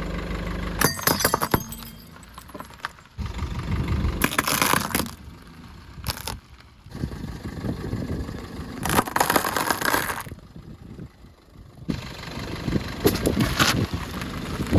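Earthen clay pots cracking and shattering as a car's tyres roll over them, with clinking and scraping of the broken pieces. It comes in several loud stretches with quieter gaps between.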